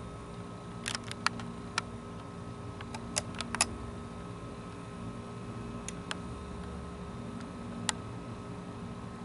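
Handling noise on a handheld camera: scattered sharp clicks at irregular intervals, a few of them louder, over a steady hum.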